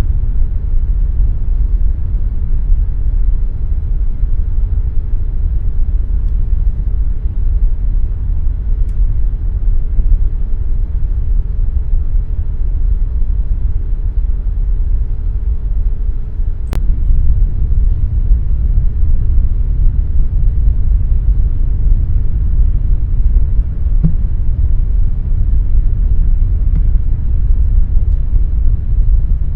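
Air conditioner running steadily: a deep, even rumble. A faint steady hum over it stops a little past halfway with one sharp click.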